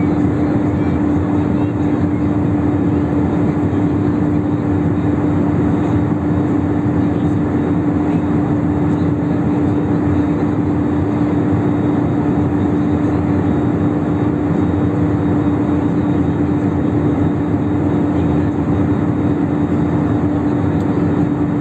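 Steady engine and airflow noise inside an airliner cabin in flight, with a constant low hum running through it.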